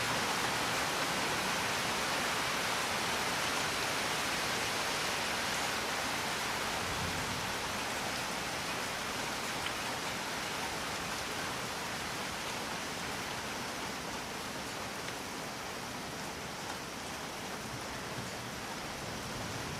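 Steady rain falling, a dense even hiss with a few faint drop ticks, easing slightly in level over the stretch.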